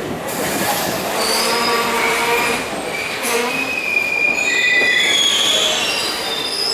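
Passenger train coaches rolling slowly into the platform with a rumble and clatter, then high-pitched metallic squealing from the wheels and brakes, several overlapping tones, starting a few seconds in and growing stronger near the end as the train brakes to a stop.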